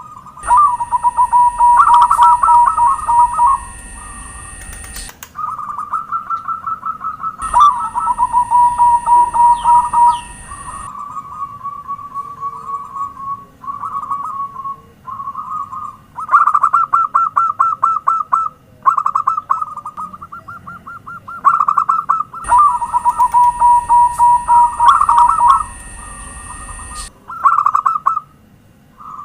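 Zebra doves singing: repeated phrases of fast, stuttering coos, several overlapping, with short breaks between phrases. A steady high-pitched whine sounds through three stretches of it.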